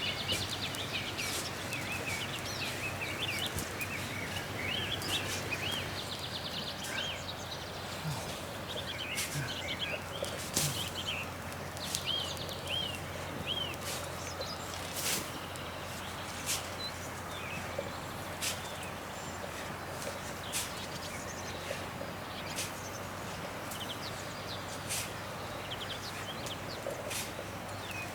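Birds chirping in short calls that bend in pitch, busiest in the first half, over steady outdoor background noise with a low hum. Sharp clicks or knocks come at irregular intervals throughout.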